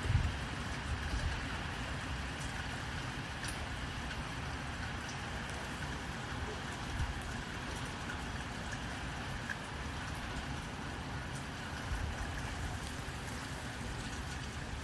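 Steady rain hiss over a low rumble, with a few soft thumps and faint crackling ticks from a wood fire.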